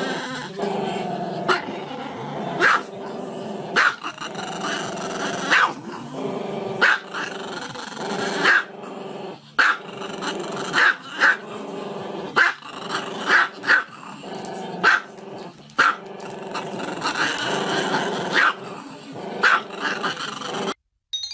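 A dog growling steadily, with sharp barks breaking in about once a second. The sound cuts off suddenly near the end.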